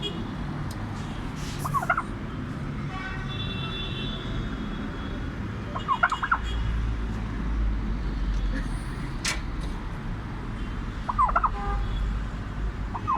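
Male turkey gobbling in short rattling bursts, four times at intervals of a few seconds, over a low rumble that grows stronger in the middle.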